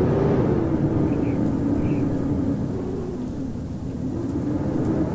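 Blizzard wind howling: a steady low rushing with a wavering moaning tone, easing a little past the middle and building again near the end.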